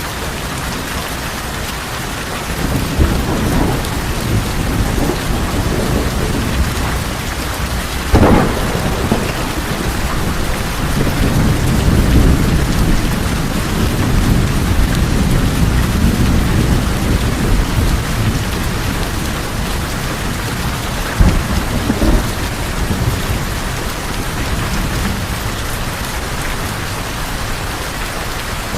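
Steady heavy rain drumming on a tin roof, with thunder rumbling low through most of it. Sharp thunder cracks stand out about eight seconds in and again about twenty-one seconds in.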